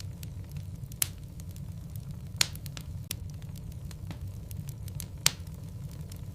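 Wood logs burning in a fireplace: a steady low rumble of flame with scattered small crackles, and three sharper pops about one, two and a half, and five seconds in, the last one loudest.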